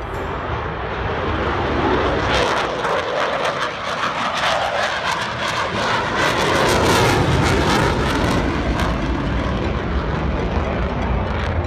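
Aircraft engine noise as an aircraft flies past, growing louder over the first couple of seconds and staying loud.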